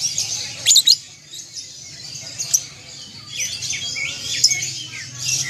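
Several songbirds chirping and singing over one another in quick, high notes, with a pair of loud, sharp notes just under a second in and a busier run of calls in the second half.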